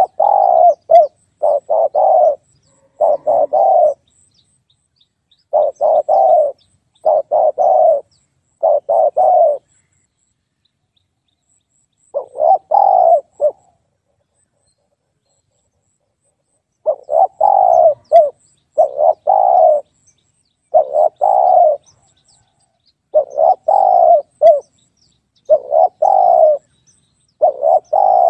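Spotted dove cooing: phrases of several short coos in quick succession, repeated over and over, with a pause of about three seconds in the middle.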